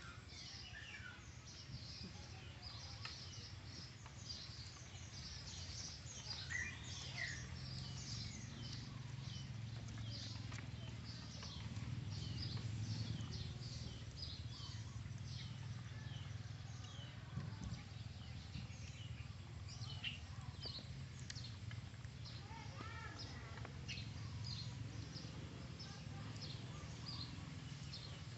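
Birds chirping over and over in quick, short calls, over a steady low hum.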